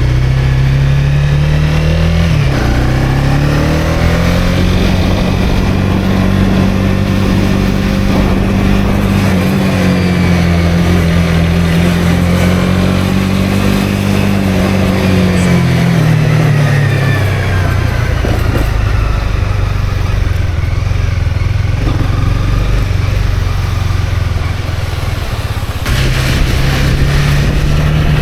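Honda CB250R's single-cylinder engine under way: it picks up revs after about two seconds, holds steady, eases off around two-thirds through, and picks up again near the end.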